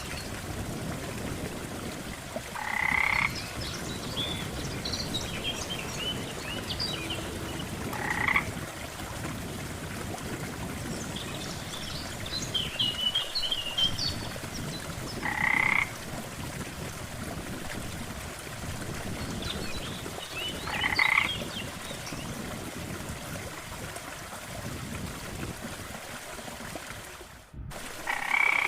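Frogs croaking at a lake: a loud croak comes every five or six seconds, with fainter, higher chattering calls in between, over a steady low rush of water. The sound cuts out for a moment near the end.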